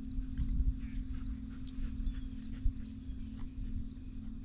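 Steady cricket chorus, a continuous high trill, over a low rumble and a faint steady low hum.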